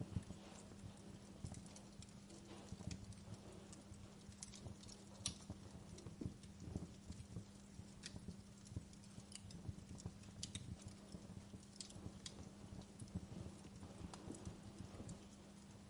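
Wood fire burning in a fireplace, crackling faintly with irregular sharp pops and snaps over a low steady rumble.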